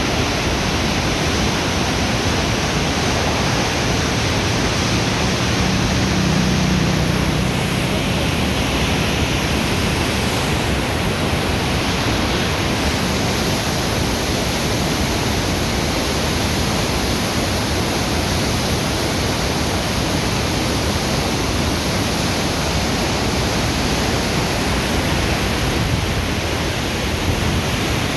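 Steady, unbroken rush of flowing water, an even hiss spread evenly from low to high pitch.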